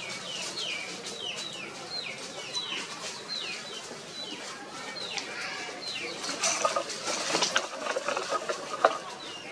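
A bird calling over and over: short, high chirps that slide downward in pitch, about two a second. In the last few seconds a louder patch of rustling with a few sharp knocks takes over.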